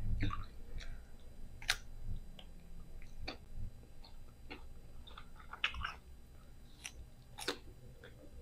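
Close-miked chewing of green mango with bagoong: irregular crisp crunches and wet mouth clicks, with sharper crunches about two seconds in and again near the end.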